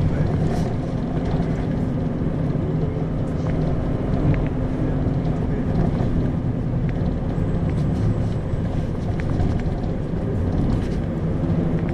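Isuzu Erga city bus (2RG-LV290N4) on the move, heard from inside the passenger cabin: steady diesel engine hum under road rumble.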